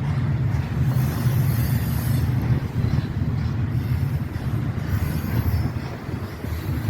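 An intermodal freight train's cars rolling past on the rails: a steady low rumble of wheels on track.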